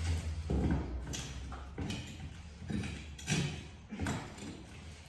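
Irregular scrapes and knocks of hand-tool work on old trim and plaster, about one stroke every half second to a second.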